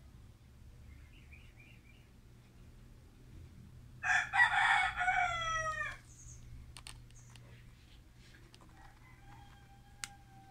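A single loud bird call, about two seconds long, starting about four seconds in and falling in pitch at its end. A few faint clicks follow it.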